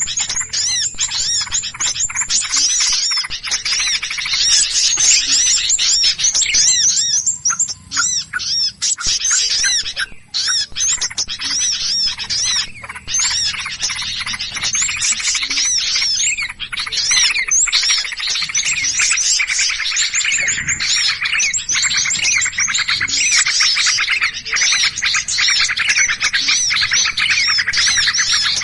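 Many small birds chirping and scolding in rapid, overlapping high calls with hardly a break: a 'burung ribut' lure recording of agitated small birds, the kind played to draw in birds of every species.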